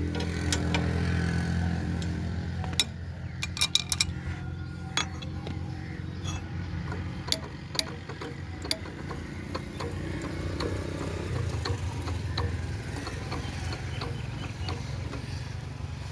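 Old diesel engine running steadily with a low hum, with scattered sharp clicks and knocks, several close together about three to four seconds in.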